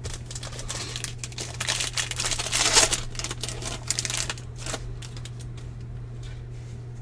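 Crinkling, rustling and clicking of baseball cards and foil pack wrappers being handled, loudest about three seconds in and dying down after about five seconds, over a steady low hum.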